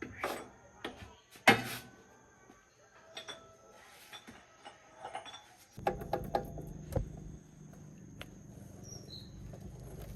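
Metal tools and parts clinking and clanking during tractor repair work, with a sharp clank about a second and a half in. From about six seconds a steady low rumble begins.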